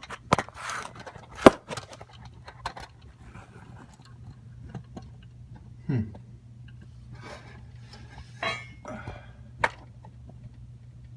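Scattered metallic clinks and knocks of tools and parts being handled, the sharpest about one and a half seconds in, over a steady low hum.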